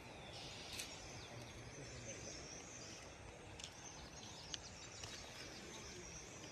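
Faint, steady outdoor background noise with scattered faint bird chirps and a few light clicks.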